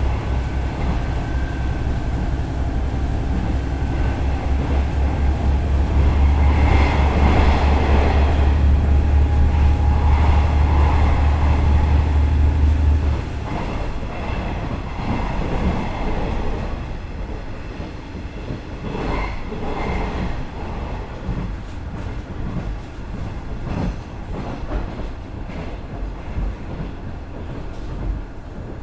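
Cabin running sound of a KiHa 110-series diesel railcar. Its Cummins DMF14HZA diesel engine gives a loud, steady low drone under power, which drops off suddenly about halfway through as the engine is throttled back. The car then runs on more quietly, with wheel-on-rail rumble and irregular knocks.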